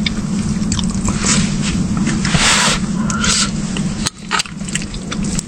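A spoon scrapes and stirs in a cooking pot of thick porridge in short repeated strokes, over a steady low hum.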